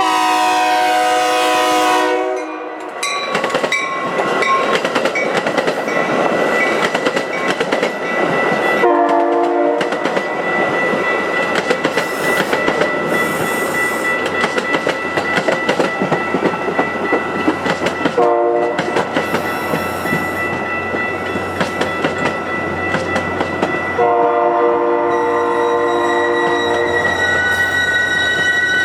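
Metra commuter train passing close by, its horn sounding the grade-crossing pattern: long, long, short, long. Between the horn blasts the wheels clatter over rail joints, with a steady high-pitched squeal.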